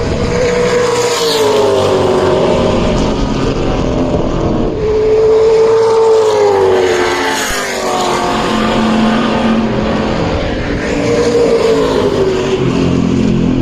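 Historic muscle car's racing V8 heard from on board at full noise, its pitch falling and rising several times with lifts off the throttle and gear changes.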